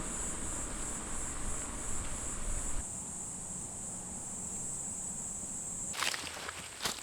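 Steady high-pitched chorus of crickets, with a low rumble that fades out about three seconds in and a few sharp rustling clicks near the end.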